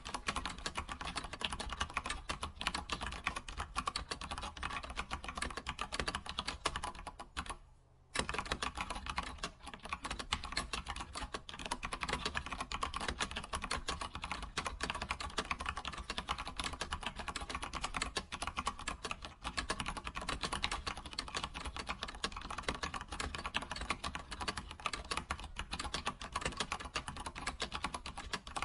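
Computer keyboard typing: a fast, continuous stream of key clicks, broken by one short pause about eight seconds in.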